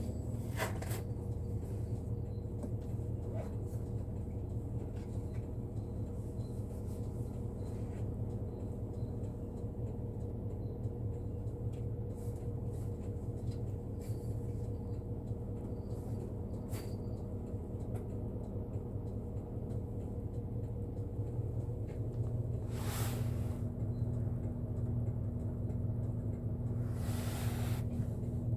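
Bus engine and road noise heard from inside the cabin, a steady low drone with light rattles; its note shifts slightly about 22 seconds in, and two brief rushes of noise pass near the end.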